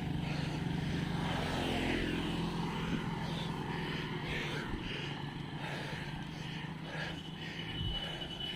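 A motor vehicle's engine droning, fading over the first few seconds as it draws away, over road and wind noise.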